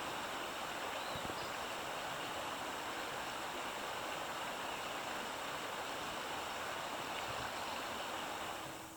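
Creek water flowing over rocks: a steady rushing that fades out near the end.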